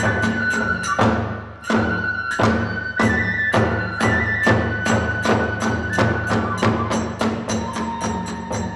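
Hiroshima kagura hayashi music: hand cymbals and drums beat at a fast, even pace of about four strokes a second, while a bamboo flute holds long notes that step down in pitch.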